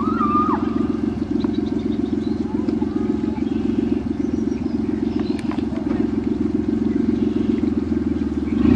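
1989 Caravan minivan's engine idling steadily with a rapid pulsing. A couple of short sharp knocks sound over it.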